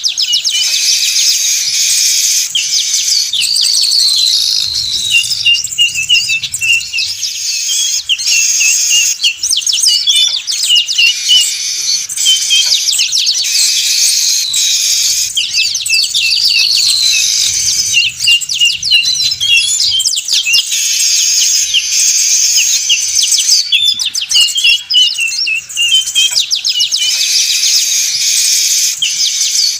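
Manyar weaver birds chattering excitedly in a dense chorus of chirps, trills and short buzzy notes, played as a looped bird-lure recording that repeats about every ten seconds.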